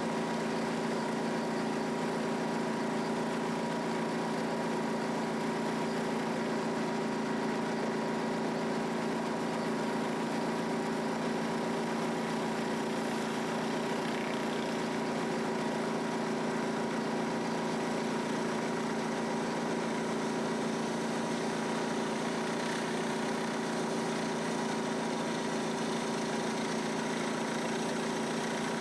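Pressure washer's engine running steadily, with an even hiss over it.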